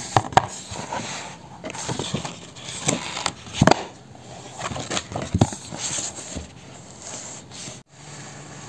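Irregular clicks, taps and rustling of small objects being handled close by, with a sudden break near the end.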